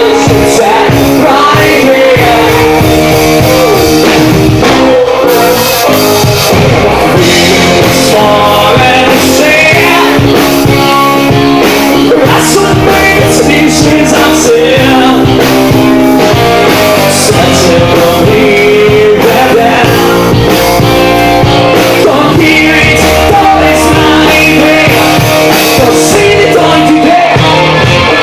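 Live rock band playing loudly: guitars and drum kit, with singing over the music.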